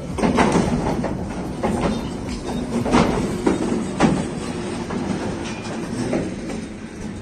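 Flat wagons of a slow goods train rolling past on CASNUB bogies, a steady rumble broken by irregular sharp metallic clanks and knocks, about five in all.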